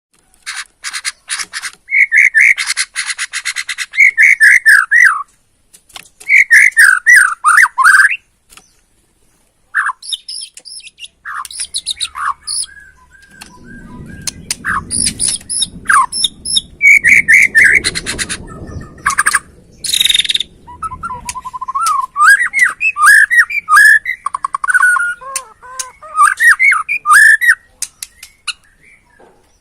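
White-rumped shama of the Borneo race singing: loud whistled phrases that slur up and down, broken up by fast dry rattling calls. A low rumbling noise runs underneath for a few seconds in the middle.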